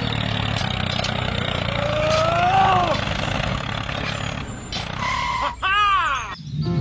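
Steady low motor drone, with a single rising-and-falling call about midway and a quick run of sweeping tones near the end.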